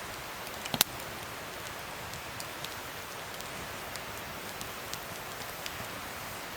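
Wood fire crackling: a steady hiss with scattered small snaps and one sharp pop about a second in.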